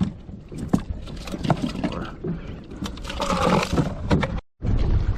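Scattered clunks and scrapes of gear being handled on a plastic Hobie fishing kayak. Near the end the sound cuts out for a moment and comes back as a steady rush.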